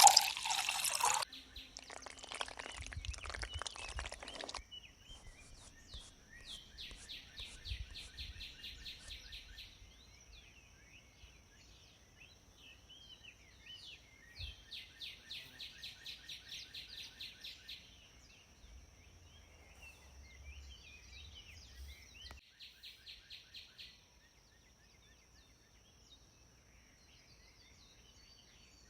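A bird singing phrases of quick, evenly repeated notes, each phrase a few seconds long, with scattered chirps between, over a steady thin high-pitched tone. A rushing noise fills the first few seconds.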